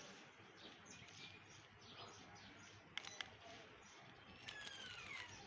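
Faint bird chirping: short repeated chirps, a couple of sharp clicks about three seconds in, and a falling whistled note near the end.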